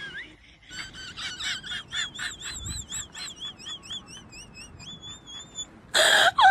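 A quick series of high chirping whistle notes, about three a second, that tails off, followed near the end by a short, loud burst of noise.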